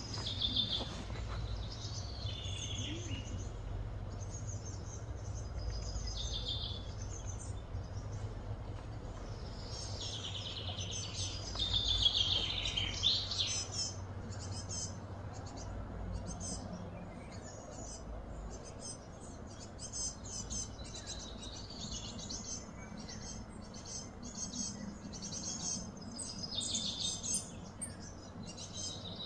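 Outdoor birds chirping and calling in quick, repeated phrases, busiest and loudest about twelve seconds in, over a steady low rumble.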